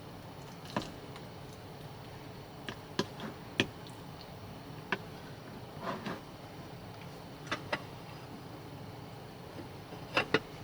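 Scattered short, sharp clicks and knocks of small objects being handled, about a dozen in all, over a steady background hiss.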